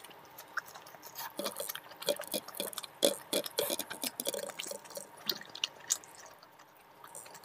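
Close-miked wet chewing of a mouthful of curried fried fish eaten by hand: a quick, uneven run of small wet clicks and smacks that thins out near the end.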